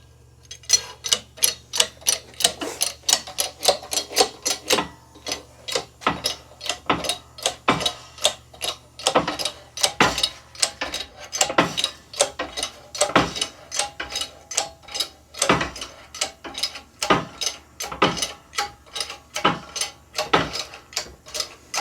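Hand ratchet wrench clicking as a nut or bolt is run down, about two to three clicks a second, over a low steady hum.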